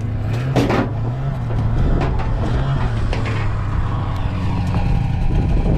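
Snowmobile engine idling steadily, its low hum wavering slightly in pitch, with a few short knocks over it.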